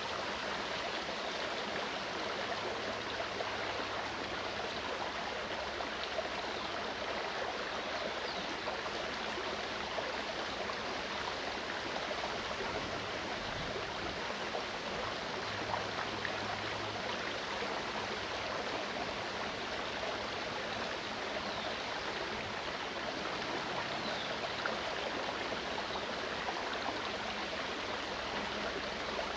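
Mountain stream running steadily: an even, unbroken rush and babble of flowing water.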